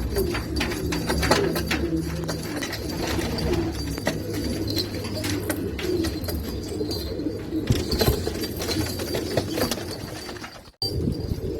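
Domestic pigeons cooing continuously, with scattered clicks and taps. The sound cuts out briefly near the end.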